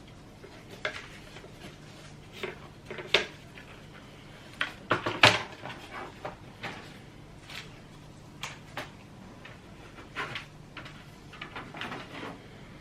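Picture frame and its plexiglass pane being handled: scattered short clicks, taps and knocks, with one louder knock about five seconds in.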